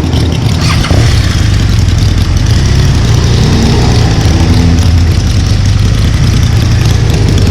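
BMW R1200RS boxer-twin motorcycle engine running steadily, with a loud even hiss over it, growing a little louder about a second in.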